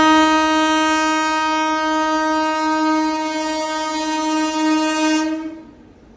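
Indian Railways locomotive horn sounding one long blast at a steady pitch, cutting off about five and a half seconds in.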